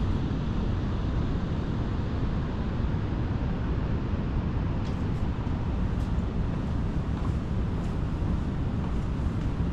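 Steady low rumbling noise, even throughout, with a few faint clicks near the middle.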